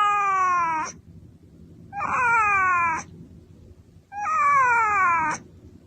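A cat meowing: three long, drawn-out meows about two seconds apart, each falling in pitch.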